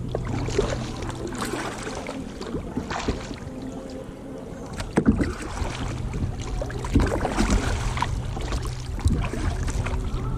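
Kayak paddle strokes dipping and splashing at an uneven pace while the kayak threads through narrow gaps between trees, with a few sharp knocks.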